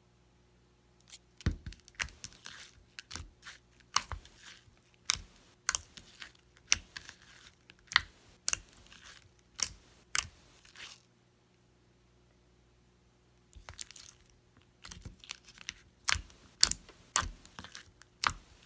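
Clear slime being squished and poked by hand, giving irregular wet pops and clicks in two stretches with a pause of a couple of seconds in the middle.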